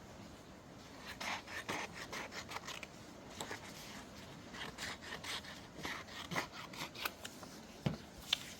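Paper being handled and shuffled in a run of short scratchy rustles, with two sharper clicks near the end.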